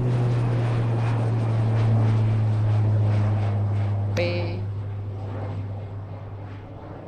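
Propeller airplane engine droning steadily, then fading away over the last couple of seconds. A short pitched sound cuts in briefly about four seconds in.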